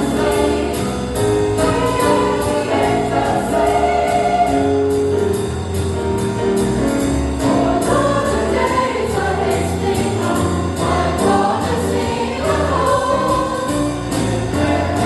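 Church choir singing a swing-style jazz Christmas number over a band with a steady beat.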